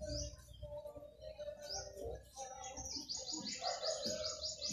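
Birds chirping, with a few short rising calls and then, from about halfway through, a fast run of repeated high chirps, about seven a second.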